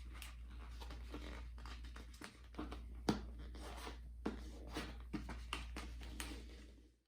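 Poster board being folded and creased by hand: irregular rustling with short crackles and taps as the stiff paper bends and is pressed flat.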